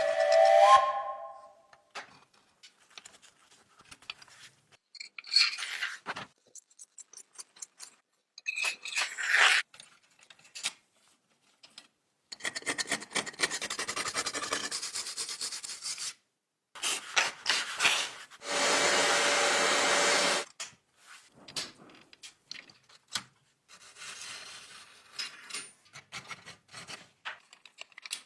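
Hand work on small parts at a workbench: scattered clicks and taps, a stretch of rubbing and scraping a little before the middle, and a steady, even noise lasting about two seconds past the middle.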